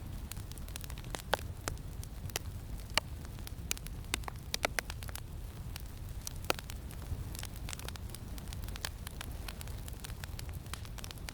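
Campfire crackling, with irregular sharp pops and snaps of varying loudness, over a steady low rumble of wind.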